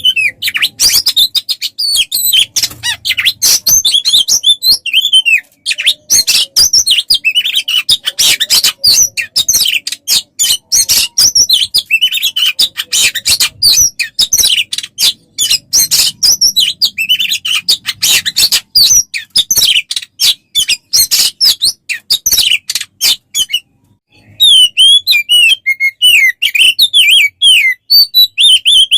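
Songbird song for tutoring caged birds: a loud, near-continuous stream of rapid chirps and trills. A brief break falls about two-thirds of the way through, and a run of quick, lower whistled notes follows it.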